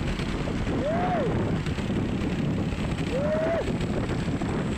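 Heavy truck running on the road, a steady engine and road rumble with wind on the microphone, cut through by a rising-then-falling tone three times, about two seconds apart.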